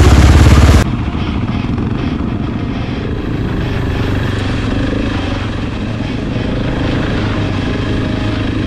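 Enduro motorcycle engine running at a steady pace. A much louder low rumble cuts off abruptly under a second in, leaving the engine running evenly.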